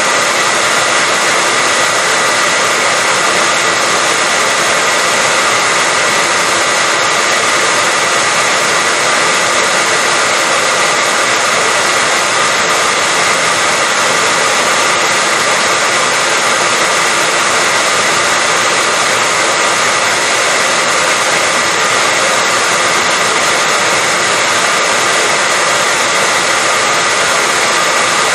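Hair dryer running continuously at a steady speed: an even, unchanging whooshing hum with a faint steady whine.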